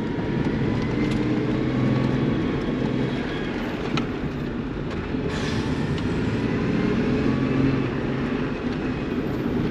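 Chevy S10 autocross truck's engine running steadily, its drone rising and falling a little with the throttle.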